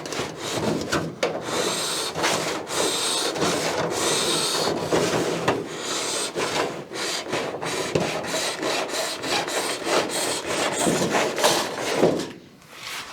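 Hand file rasping along the edge of an aluminium aircraft skin in repeated back-and-forth strokes, about one a second, to give the edge more clearance; the strokes stop near the end.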